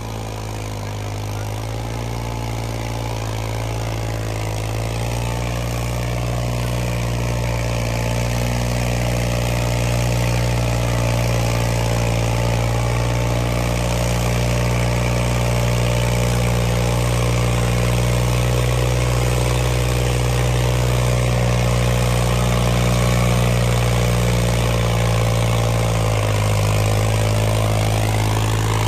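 Tractor diesel engine running steadily under load in a tractor tug-of-war, held at moderate revs because there is no front ballast and the front end would otherwise lift. It grows a little louder over the first few seconds, then holds an even pitch.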